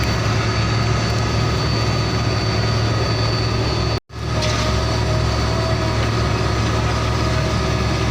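Heavy truck engine idling steadily, broken by a brief cut to silence about four seconds in.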